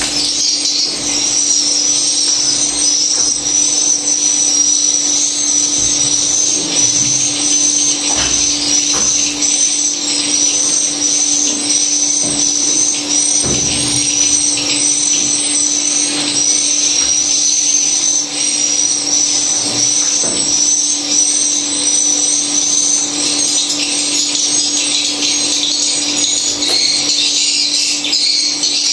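Swiftlets twittering: a dense, unbroken high-pitched chirping made of quick arched notes repeating over and over, over a steady low hum.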